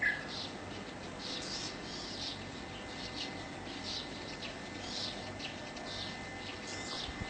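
Small birds chirping: short, high chirps repeated roughly twice a second, over a faint steady high whine.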